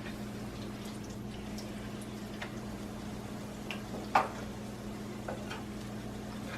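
Hot oil crackling and popping in a frying pan with tortillas in it, the pan holding too much oil. There is a steady low hum underneath and one sharper click about four seconds in.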